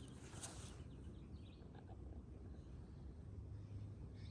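Faint spring woodland ambience: small songbird chirps in the distance over a low steady rumble, with one brief soft click or rustle just under half a second in.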